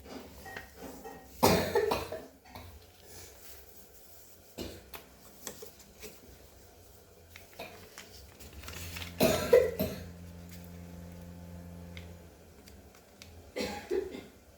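Notebook paper being handled and folded by hand, with scattered rustles and creases and three louder short bursts of sound, about 1.5, 9.5 and 14 seconds in.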